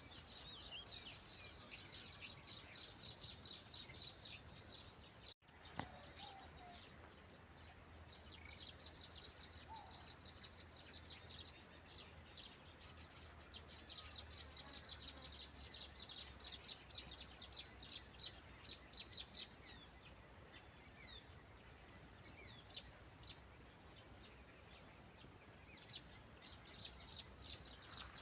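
Birds chirping in many short, quick calls over a steady high-pitched insect drone, as in a rice paddy field in the morning. The sound drops out for an instant about five seconds in.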